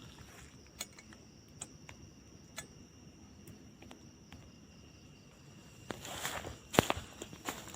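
Night insects keep up a steady high-pitched drone in forest undergrowth. Over it come scattered crunches of footsteps on the forest floor, then a louder stretch of rustling near the end with one sharp snap, like a twig breaking.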